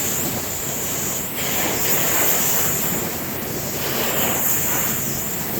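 Strong sustained wind of about 50 knots blowing hard, swelling in gusts and easing again, with wind buffeting the microphone.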